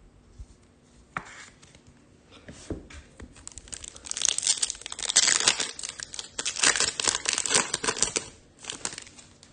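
Foil wrapper of a Topps Chrome trading-card pack being torn open and crinkled. A couple of small knocks come first, then a dense run of crackly rustling from about three and a half seconds in until near the end.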